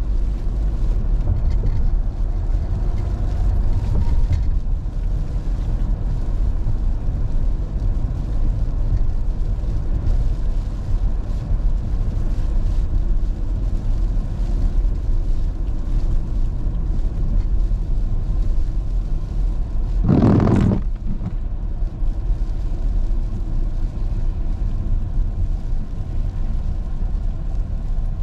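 Car driving on an icy road, heard from inside: a steady low rumble of tyres and engine. About twenty seconds in there is one short, louder burst of noise lasting under a second.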